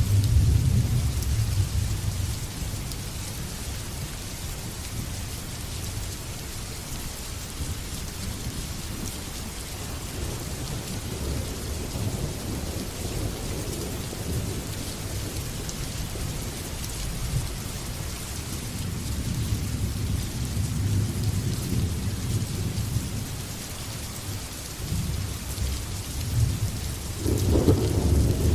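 Steady heavy rain falling, with rolling thunder rumbling several times: a rumble at the start, softer ones in the middle, and a louder one near the end.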